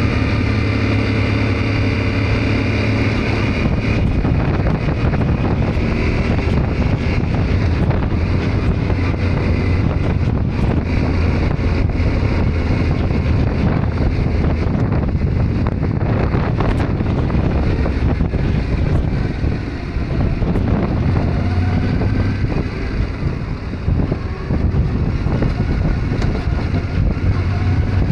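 Yamaha Ténéré 700 parallel-twin engine running under way, with heavy wind noise on the microphone; the engine note shifts with the throttle and eases briefly about twenty seconds in.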